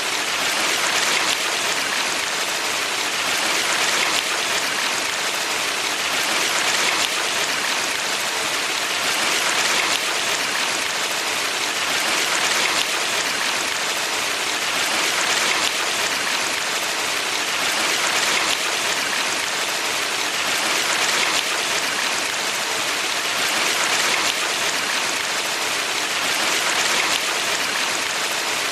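Valley stream water rushing steadily, swelling gently and easing back about every three seconds.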